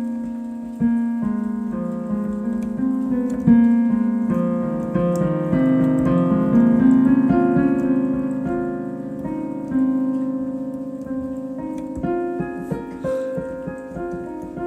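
Solo piano improvisation: a steady flow of notes and chords, mostly in the middle register, ringing on and overlapping one another.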